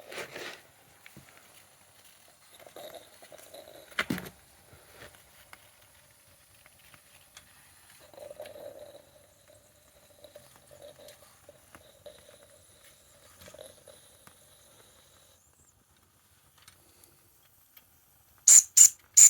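Mamod toy steam locomotive giving off a faint hiss of steam and soft intermittent sputtering, with a single click about 4 seconds in; the steady hiss stops about three-quarters of the way through. Near the end come four loud, sharp knocks in quick succession.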